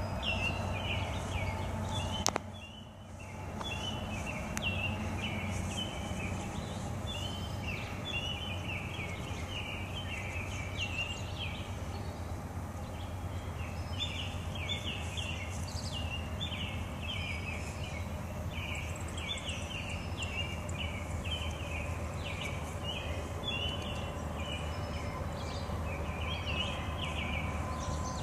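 Small birds chirping repeatedly in short high calls over a steady low background hum; the sound briefly dips out a couple of seconds in.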